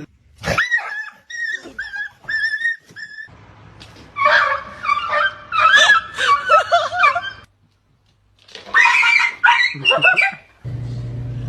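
A dog vocalizing in several bursts of high-pitched calls, then a steady low hum near the end.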